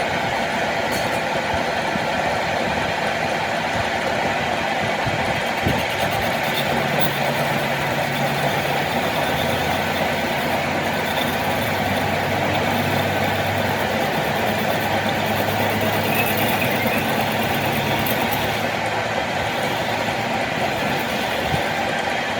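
A machine running steadily in a heavy-equipment workshop, a continuous mechanical noise with a low hum that comes in for several seconds in the middle.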